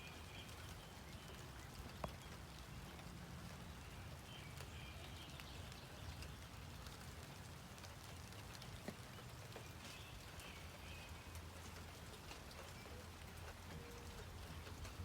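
Light rain falling steadily, with scattered individual drops ticking.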